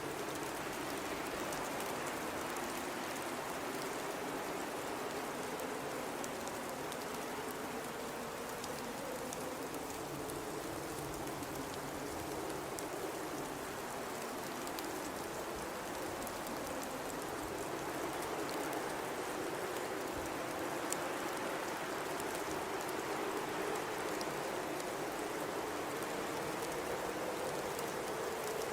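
Blizzard wind blowing steadily, with a low howl that slowly rises and falls in pitch over a constant rush of noise.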